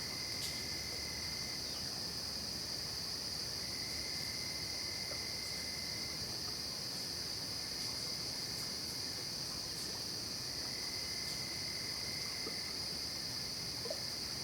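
Night insect chorus in a late-summer forest: a steady, unbroken high-pitched trilling, with a fainter, lower trill that comes in and drops out three times.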